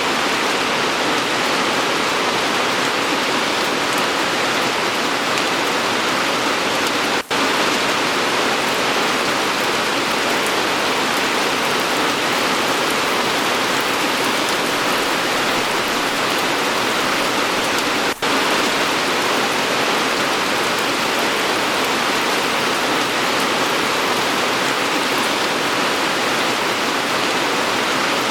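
Steady rain falling, an even hiss with no distinct drops standing out, broken twice by a split-second dropout in the sound.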